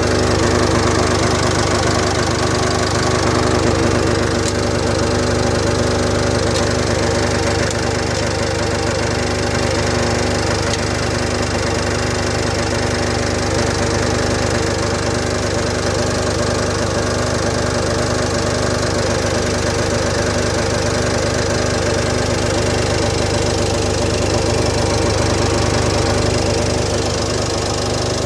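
Nissan X-Trail T31's M9R 2.0-litre four-cylinder diesel engine running steadily with a humming drone, the hum that is the point of concern.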